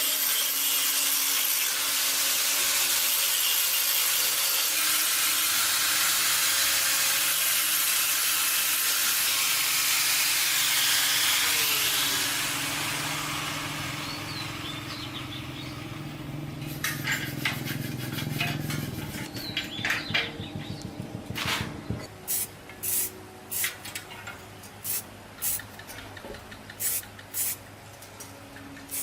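A power tool runs steadily with a loud rushing hiss for about twelve seconds, then dies away. It is followed by a series of separate sharp taps and clicks, like parts or tools being handled and knocked.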